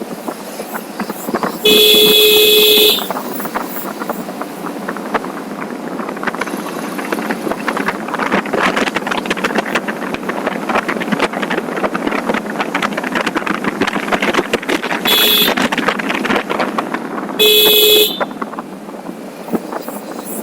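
A vehicle horn honks three times: one long blast, then two shorter ones near the end, over steady wind and road noise on a moving motorcycle's microphone.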